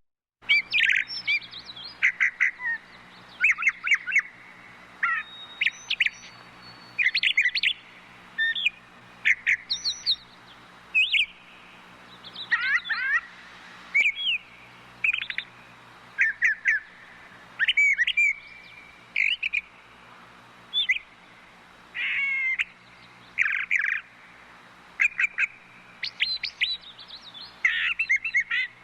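A brown thrasher singing: a long run of short, varied whistled and chirped phrases, often given in quick clusters, with brief pauses between them.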